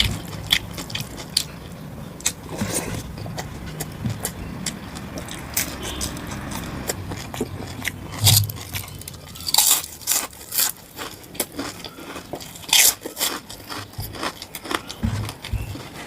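Close-miked eating of mutton curry with rice: chewing with irregular sharp mouth clicks, the louder ones bunched in the second half.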